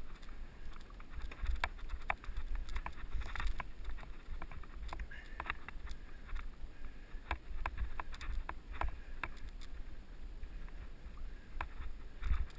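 Giant mountain bike riding over a rough dirt trail: the bike rattles in irregular sharp clicks and knocks, over a steady low rumble of wind buffeting the helmet camera's microphone.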